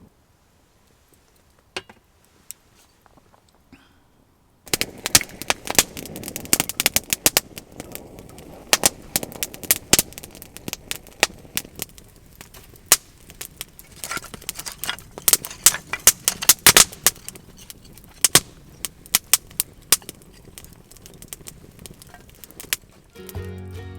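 Wood fire crackling, with many loud, sharp irregular pops of burning firewood; it starts suddenly about five seconds in after near silence. Music comes in near the end.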